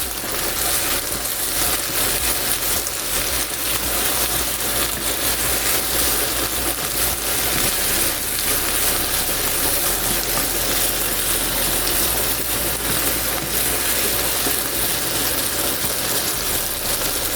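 Chicken strips with ginger and garlic sizzling steadily in a hot wok, with occasional light clicks.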